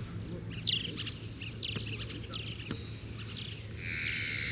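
Small birds chirping over and over, with a few sharp knocks of a football over a low steady hum. A louder hissing sound comes in about four seconds in.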